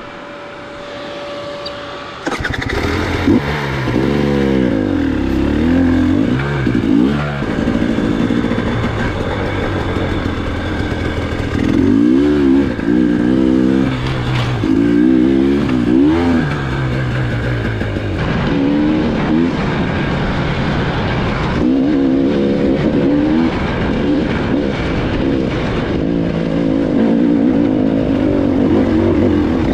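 KTM enduro dirt bike engine, quieter and steady for the first two seconds, then suddenly louder and revving up and down over and over as the bike is ridden over rough ground.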